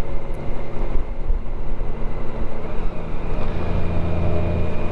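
Motorcycle engine running steadily under road and wind noise, its low note growing stronger about three and a half seconds in.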